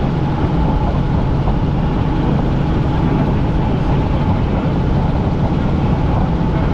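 Helicopter in flight heard from inside the cabin: a loud, steady drone of engine and rotor, with a low hum and a higher steady whine running unchanged.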